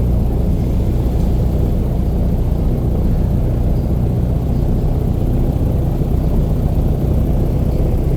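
Airboat engine and propeller running steadily, a deep even drone.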